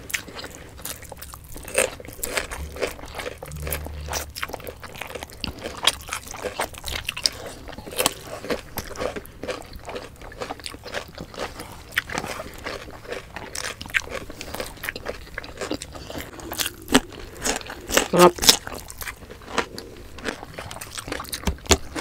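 Close-miked mouth sounds of two people eating pork belly adobo and rice by hand: chewing and biting with many short, irregular wet clicks, a few louder ones about seventeen to nineteen seconds in.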